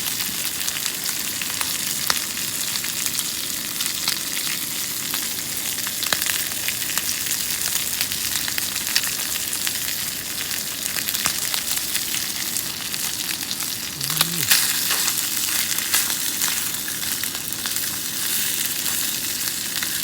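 Skin-on food frying in a pan over a camping gas burner: a steady sizzle peppered with small pops and crackles of spitting fat. A brief low sound about fourteen seconds in.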